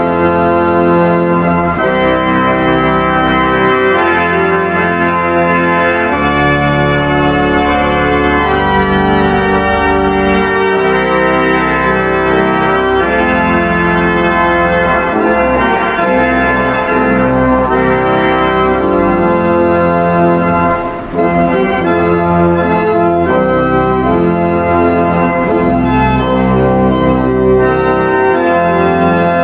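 Organ music played in sustained chords, the notes shifting as the harmony moves, with a brief drop about twenty-one seconds in.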